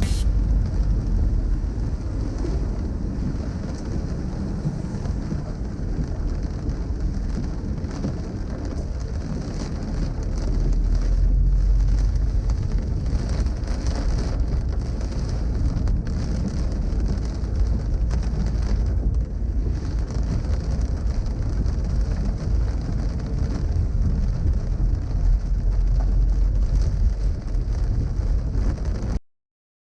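Rain hitting a car's windshield, heard from inside the cabin over a low rumble of engine and road noise that swells twice. The sound cuts off abruptly near the end.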